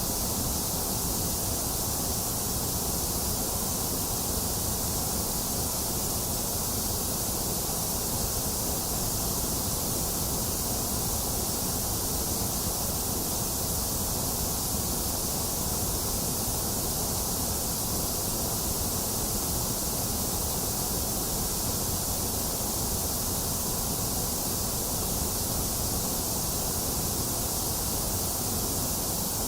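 Box fan running steadily mixed with a steady hiss of rain, an even, unchanging wash of noise.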